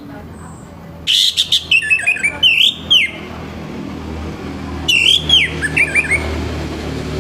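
Orange-headed thrush singing in loud, rushed phrases of rising and falling whistles mixed with harsh, rough notes: one phrase about a second in and another about five seconds in, over a low steady hum.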